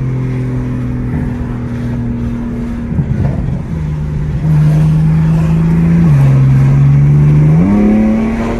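Straight-piped BMW M4 twin-turbo inline-six exhaust droning while it is driven. The engine note holds steady, breaks briefly about three seconds in, drops lower about six seconds in and climbs higher near the end as the revs change.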